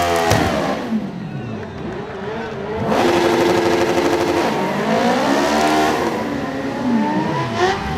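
Superbike engine revving hard through a rolling burnout. Its pitch rises and falls several times and is held high and steady for over a second near the middle.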